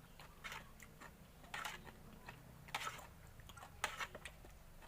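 Someone eating raw shrimp salad up close: wet chewing with a handful of short, sharp mouth smacks and clicks spread through.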